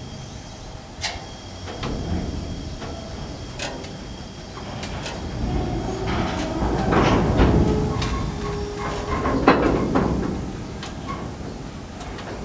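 Freight gondola wagons rolling slowly along the track during shunting, with irregular metallic knocks and clanks from the wheels and running gear. There are a couple of brief squeals about eight to nine seconds in, and the sound is loudest from about six to ten seconds in.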